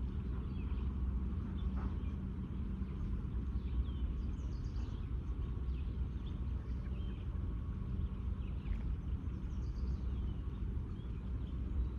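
Steady outdoor background hum, low-pitched and unbroken, with a few faint, brief bird chirps scattered through it.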